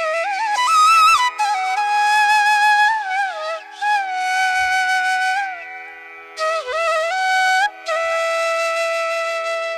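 Background music: a slow flute melody with sliding, bending notes over a steady drone.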